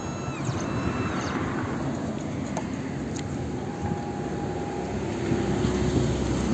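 Automatic key-cutting machine milling a Honda HR-V key blade: a steady mechanical running noise with a faint steady whine.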